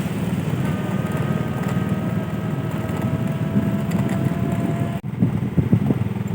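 Wind buffeting the microphone by the sea, with a motor's steady drone heard from about half a second in until the sound cuts out briefly near five seconds; after that the wind comes in gustier.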